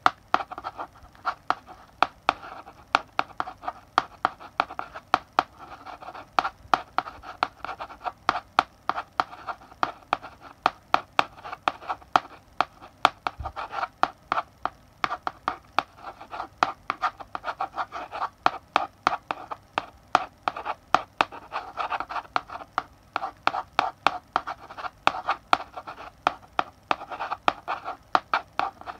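Chalk writing on a blackboard: continuous scratchy strokes broken by sharp taps, several a second, as the chalk strikes the board.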